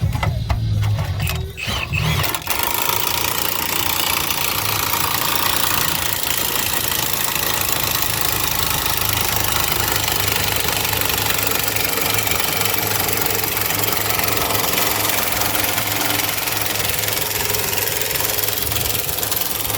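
A cordless power tool starts about two seconds in and runs steadily and loudly without a break, a continuous grinding or cutting noise over a low hum.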